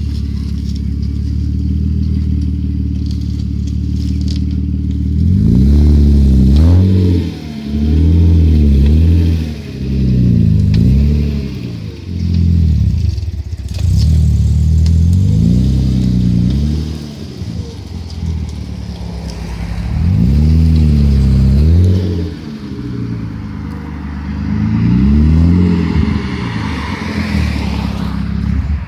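BMW E36 320i's 2.0-litre straight-six through a loud exhaust, idling steadily at first. From about five seconds in it is blipped up and let fall back, about seven times.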